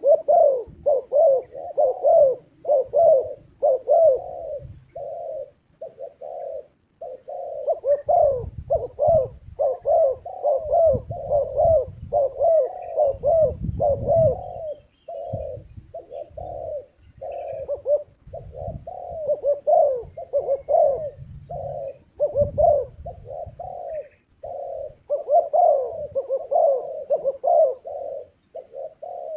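Spotted dove calling over and over, a quick run of short coos with hardly a pause. A low rumble sits under the calls for several seconds in the middle.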